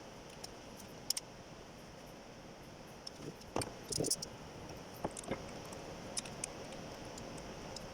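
Scattered light clicks and clinks of hand tools and metal engine parts being handled, with a small cluster about halfway through, over a steady faint hiss.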